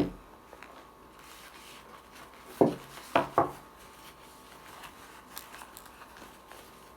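Brake pad packaging being handled and unwrapped: faint crinkling and rubbing, with three short, louder sounds close together about three seconds in.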